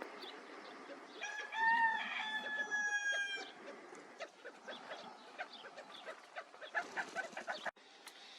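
Desert gamebirds calling: one drawn-out call with a slight fall in pitch starts about a second in and lasts about two seconds. Short chirps and clicks are scattered around it.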